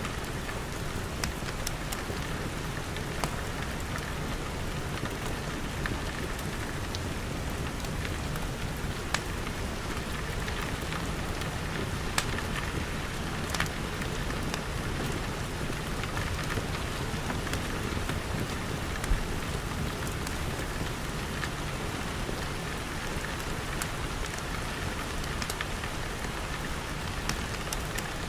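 Steady rain pattering on glass, with scattered sharp pops from a crackling wood fire.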